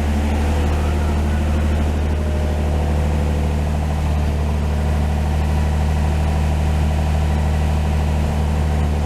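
Chevrolet 235 straight-six with dual carburetors idling steadily on fast idle at about 1150 RPM, still cold after a cold start and not yet kicked down to normal idle.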